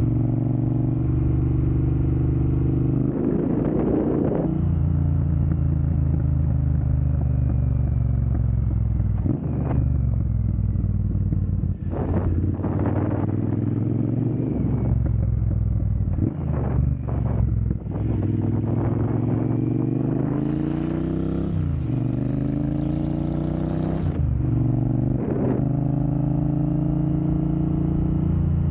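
Triumph Bonneville Speedmaster's 1200 cc parallel-twin engine running through a Jekill & Hyde aftermarket exhaust in its dynamic mode, settling at idle between repeated short throttle blips, with one longer, slower climb in revs about two-thirds of the way through.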